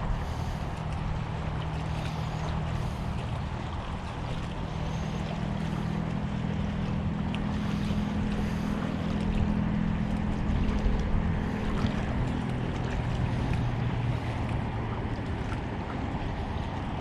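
A boat motor droning on the water, its pitch shifting and strongest mid-way, with wind on the microphone.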